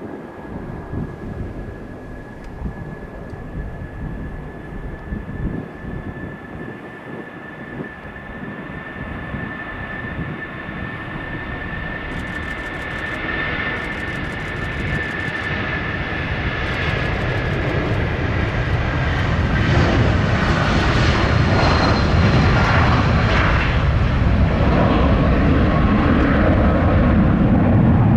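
Boeing 757-300 twin jet engines at takeoff power, a steady high whine over a roar that grows steadily louder and is loudest near the end.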